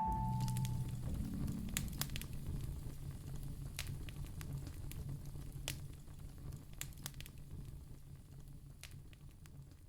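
Wood fire crackling in a fireplace: scattered sharp pops and snaps over a low, steady rumble, fading out gradually.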